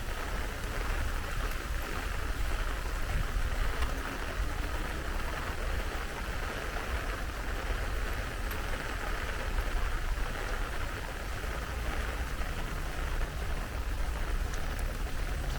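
Steady heavy rain falling, with scattered drop ticks and a constant low rumble underneath.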